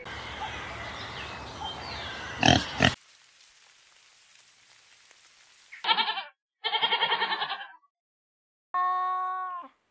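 Pigs in a crowded pen grunting and squealing, with a loud burst just before it cuts off suddenly. After a quiet gap come three short pitched animal calls: two with a fast pulsing waver, then one steady call.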